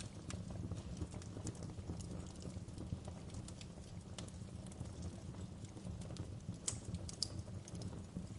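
Fireplace wood fire crackling: a steady low rumble of flames with frequent sharp pops and snaps, two louder snaps close together about seven seconds in.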